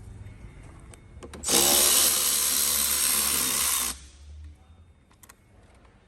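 A power tool runs for about two and a half seconds, starting about a second and a half in and stopping abruptly, used in taking off the engine's top cover. A few faint clicks come before and after it.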